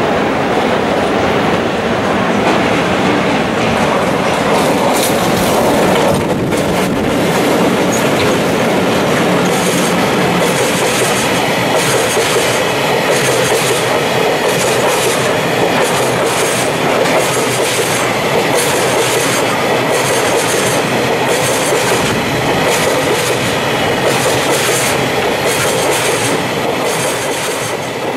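A double-headed pair of JR Freight EF64 electric locomotives passes, followed by a long train of Taki 1000 oil tank wagons rolling by. The wagons' wheels clatter over the rail joints in a steady, regular rhythm that stands out from about a third of the way in.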